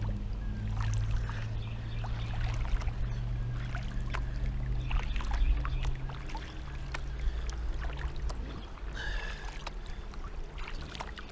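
Kayak paddling on a creek: paddle blades dipping in, with water trickling and dripping off them and small splashes, over a low steady rumble.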